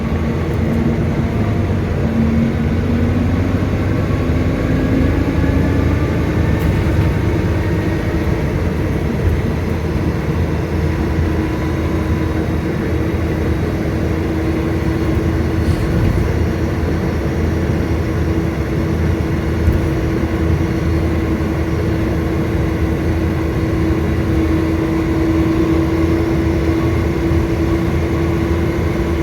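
Volvo B9TL bus engine running under a steady low rumble, with a whine that rises in pitch over the first five or six seconds and then holds at a steady pitch.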